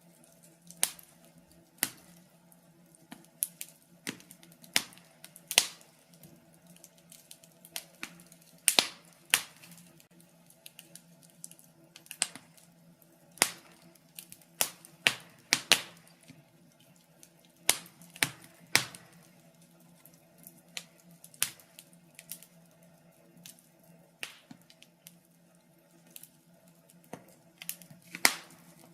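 Wood fire burning in a fireplace, crackling with irregular sharp pops and snaps at uneven intervals, over a faint steady hum.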